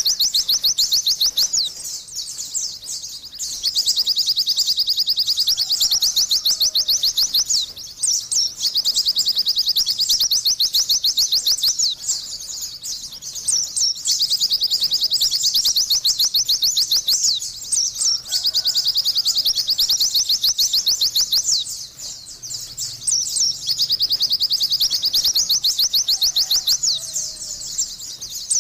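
White-eye (pleci) singing: long runs of fast, high twittering chirps lasting several seconds each, broken by short pauses.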